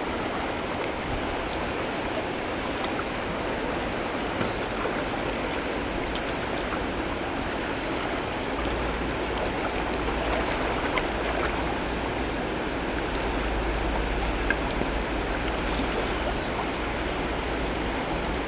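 Teesta River's fast-flowing water, a steady rushing without a break.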